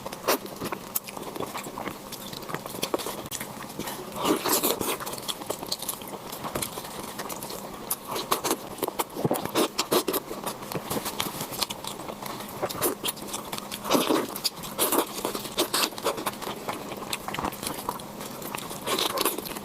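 Chewing and biting into a whole chicken: a steady run of short wet clicks and smacks, with louder clusters about 4, 9 and 14 seconds in.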